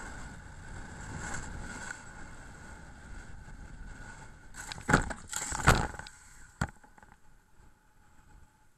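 Running noise of a moving vehicle, then three sharp knocks or impacts about five to six and a half seconds in, the middle one the loudest, after which it goes nearly quiet.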